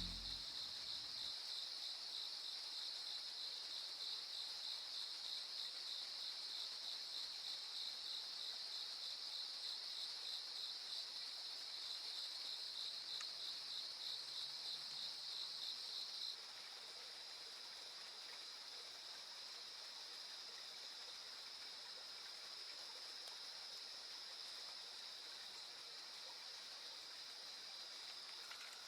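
Insects chirping faintly in a high, fast-pulsing trill that settles into a steadier buzz about halfway through.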